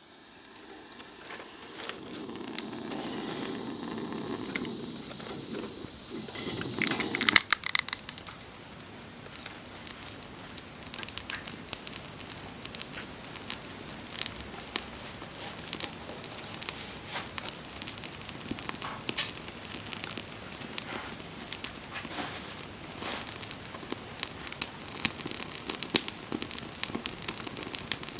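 Wood bonfire burning, crackling with many sharp snaps and pops, one loud pop about two-thirds of the way through. For the first seven seconds or so a steadier rushing noise sits under the crackles.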